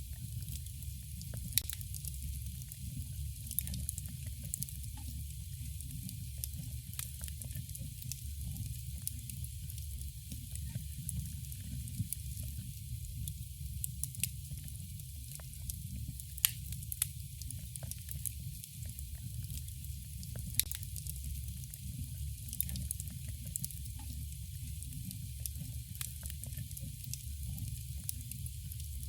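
Campfire burning: a steady low rush of flames under scattered sharp crackles and pops from the burning wood, a few of them louder than the rest.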